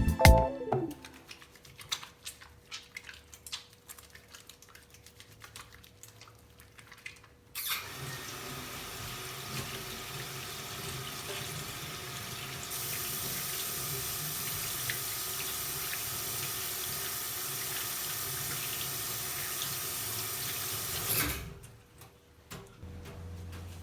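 A few light clicks and knocks, then a water tap running into a sink for about fourteen seconds. It gets louder about midway and is shut off suddenly.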